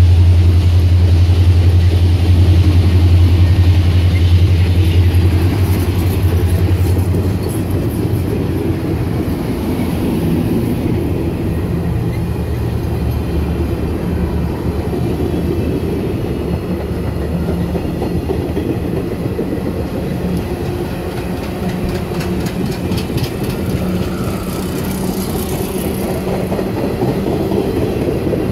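Excursion train rolling past, its cars' wheels rumbling and clicking over the rail joints. A loud low drone from the train fades out about seven seconds in.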